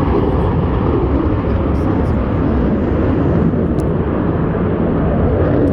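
Loud, steady jet noise from Blue Angels F/A-18 Super Hornets flying past.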